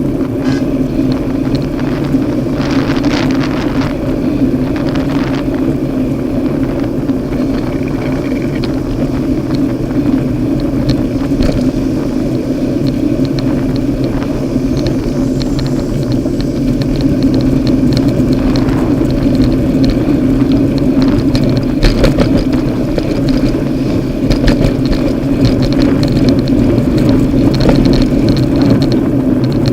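Road traffic, with a vehicle engine running in a steady low rumble close by, growing somewhat louder about halfway through.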